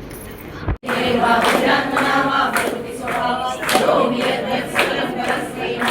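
A group of voices singing together, starting suddenly about a second in.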